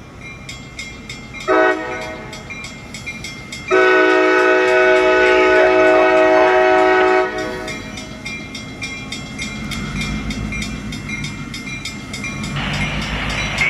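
Diesel locomotive air horn sounding a short blast, then a long blast of about three and a half seconds, with several chime tones at once. A low diesel rumble builds afterwards, and a rising rush of noise comes in near the end.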